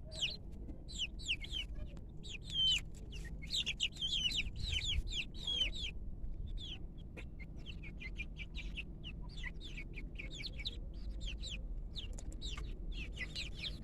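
A flock of local Arab-breed chickens calling: many short, high chirps that fall in pitch, coming in clusters. The chirps are dense for the first six seconds and grow sparser after that.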